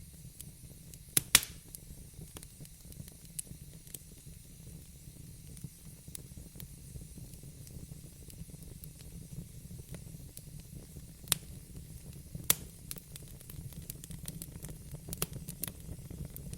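Wood fire burning in a fireplace, crackling with scattered sharp pops over a low steady rumble. One loud pop comes about a second in and two more later on.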